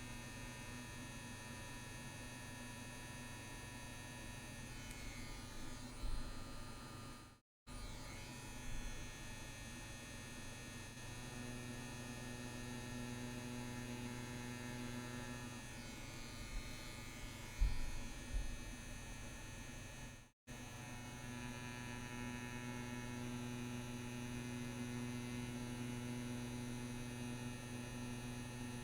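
CNC WE tattoo machine running with a steady electric hum while lines are tattooed. The hum cuts out abruptly twice, with a couple of faint knocks.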